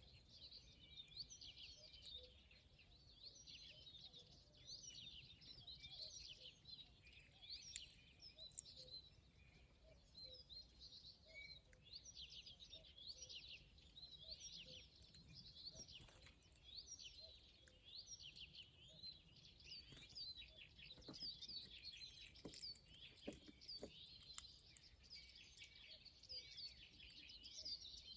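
Small birds chirping, with many short, high calls overlapping in a steady, faint chatter.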